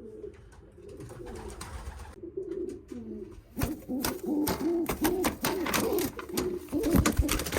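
Racing pigeons cooing in a loft: repeated low, arching coos that grow denser and louder about halfway through. Sharp clicks and scuffs from movement in the nest boxes cut across them in the second half.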